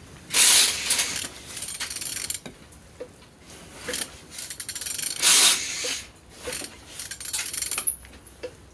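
Used engine being turned over by hand with a ratchet wrench on the crankshaft: three long rasping, rubbing strokes with ratchet clicks between them. The engine turns over with good compression.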